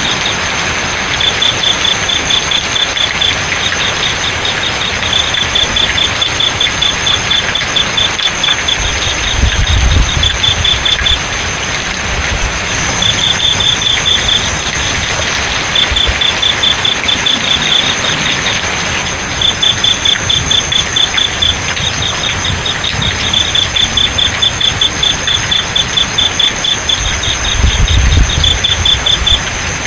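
Crickets chirping in rapid pulsed trains lasting a second or two each, over a steady hiss of flowing water. A low rumble swells twice, about ten seconds in and again near the end.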